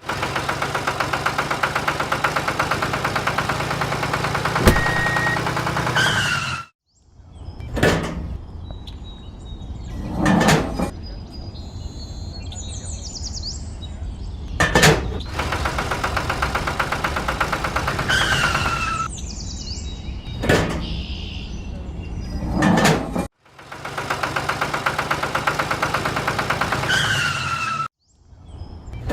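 Small motor running with a fast, even buzz in several stretches broken by abrupt cuts, with scattered knocks and short falling chirps.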